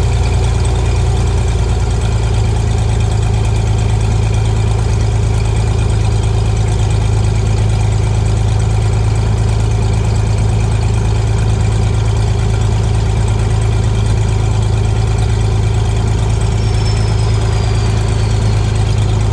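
Single piston engine and propeller of a Cessna RG light aircraft droning steadily at a constant setting. Near the end a faint high whistle glides downward.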